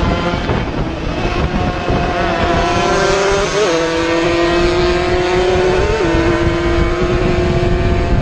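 Two-stroke racing motorcycle engine running hard at high revs, its pitch stepping down twice, about halfway through and again later, as it shifts up.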